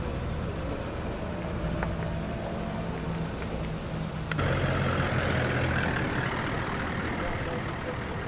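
A Suzuki Jimny's engine running at low revs as it drives slowly past. About four seconds in, the sound cuts to a Toyota Land Cruiser 70-series pickup's engine running a little louder as it pulls by.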